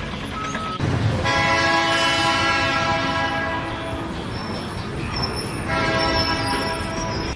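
Multi-tone air horn sounding two long, steady blasts, the first about three seconds long and the second about a second and a half.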